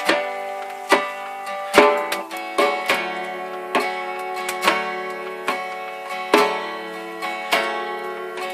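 Acoustic guitar playing an instrumental passage with ringing chords, a sharp stroke falling on each beat at a little over one per second, with djembe accompaniment.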